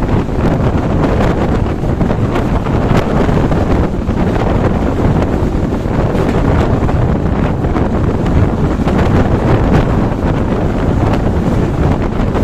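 Heavy wind buffeting the microphone over the steady rumble of a moving passenger train, heard from aboard.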